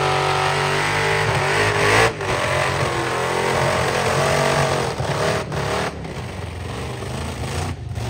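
Burnout car's engine held at high revs on the skid pad, its pitch wavering up and down over a steady hiss. The sound breaks off sharply for an instant several times.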